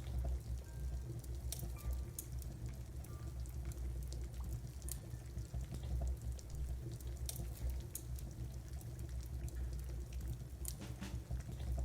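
Steady rain with a low rumble, dotted with irregular sharp crackles and pops of a wood-burning fire.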